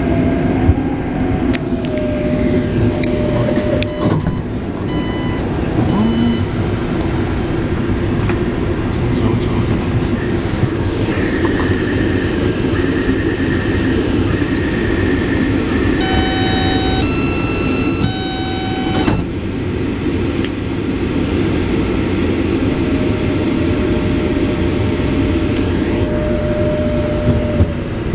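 Taipei Metro C381 train standing at a station with a steady rumble, while electronic signals sound: a short three-pulse chime about four seconds in, a run of repeated beeps from about eleven to sixteen seconds, then a chime of several notes.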